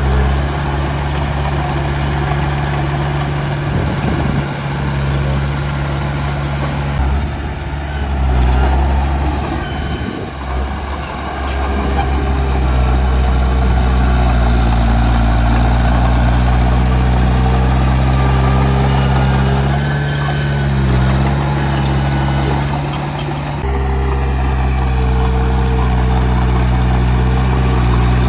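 Heavy diesel engines of a Komatsu D31 bulldozer and dump trucks running steadily at working revs. The engine note shifts in pitch a few times and changes abruptly about three-quarters of the way through.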